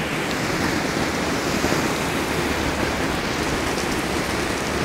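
Torrential rain falling and pouring down in a steady, heavy hiss.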